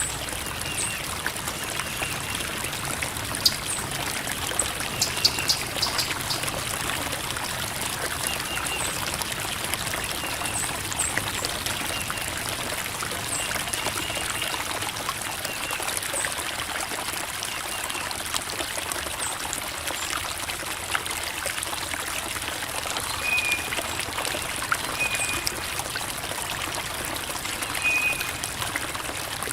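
Creek water babbling and trickling over rocks, a steady rushing splash, with short high chirps now and then.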